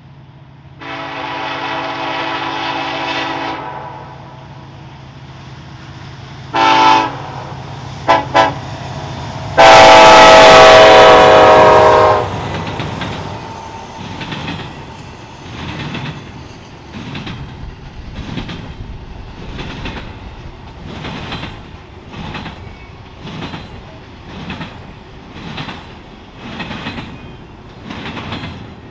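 Diesel freight locomotive's air horn blowing a sequence: a long blast, a short blast, two quick toots, then a loud long blast. Then the train's wheels click over rail joints in a steady rhythm of about one beat a second as the cars roll by.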